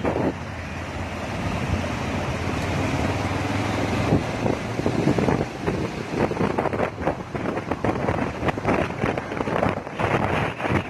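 Motorcycle riding at speed: steady engine and road noise under wind rushing over the microphone, which turns gusty and buffeting about halfway through.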